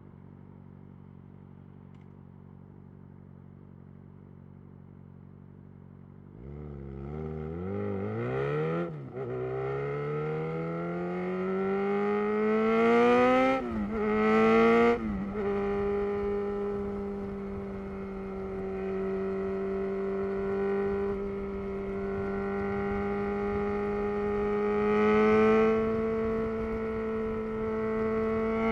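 2011 Yamaha XJ6's inline-four engine through a loud Black Widow full exhaust system, idling quietly at first, then pulling away about six seconds in. It revs up through the gears, rising in pitch with three quick upshifts, and then settles into a steady cruise with a brief swell of throttle near the end.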